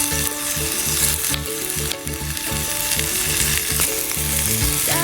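Beef tongue steak sizzling as it fries in a hot pan over a campfire, a steady crackling hiss, with background music playing under it.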